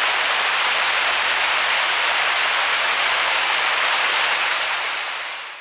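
Mountain stream rushing below a footbridge, a steady even rush of water that fades out near the end.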